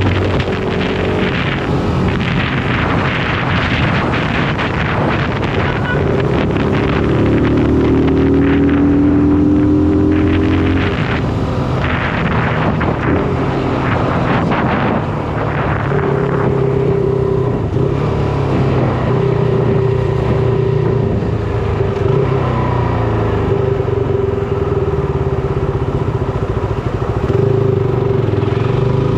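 Shineray SBM 250S motorcycle engine running while riding. The engine note rises and changes through the first half, then holds steady from about halfway.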